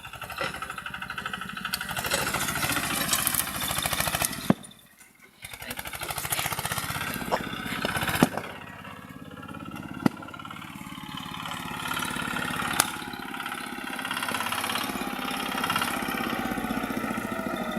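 Small tractor engine running with a steady rapid firing beat. About five seconds in, the sound drops away for about a second and then resumes, with a few sharp knocks scattered through.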